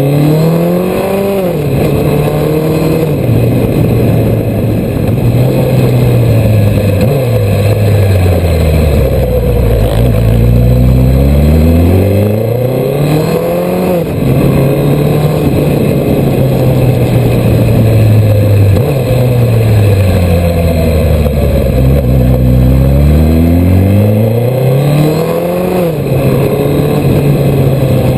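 Suzuki GSX1300R Hayabusa's inline-four engine heard from on board, its revs climbing and dropping back about five times as the bike accelerates and slows, with a steady rushing noise underneath.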